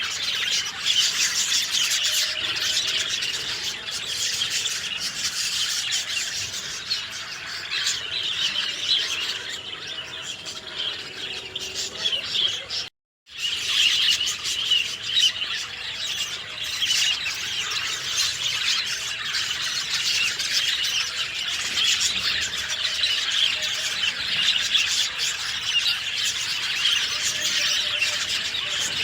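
A dense chorus of many small birds chirping and singing together, high and busy, without pause. About 13 seconds in the sound cuts out completely for a split second, then the chorus resumes.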